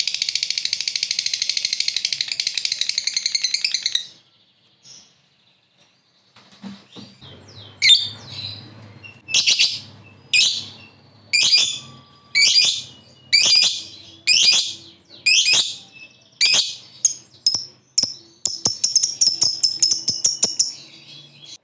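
Lovebird singing: a long, fast run of shrill chattering calls (the 'ngekek' trill) that stops about four seconds in. After a pause come about a dozen separate shrill calls about one a second, then another short rapid chatter near the end.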